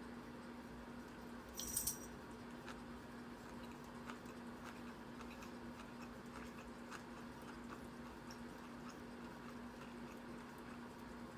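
Faint small clicks and taps of food being handled and eaten, with one brief, sharper ringing click about two seconds in. A steady low electrical hum runs underneath.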